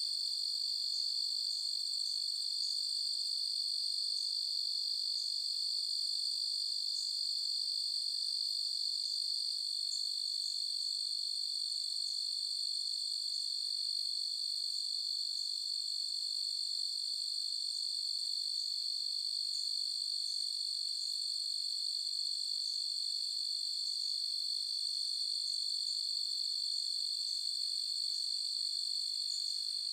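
A chorus of crickets trilling in one continuous, steady high-pitched drone with no pauses.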